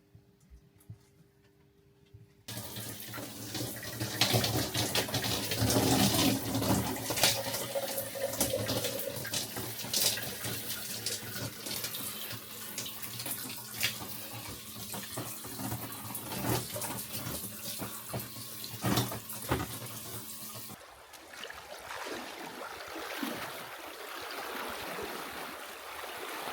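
Running, splashing water with scattered sharp knocks and splashes, starting abruptly about two and a half seconds in. Later it drops to a quieter, softer rush of water.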